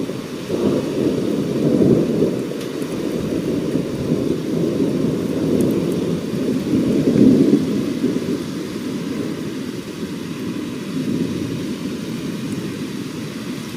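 Rolling thunder: a long, low rumble that swells about two seconds in and again around seven seconds, then slowly eases off.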